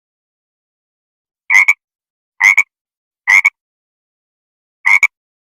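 Four short croaking animal calls, each a quick double pulse, starting after about a second and a half of silence and spaced roughly a second apart.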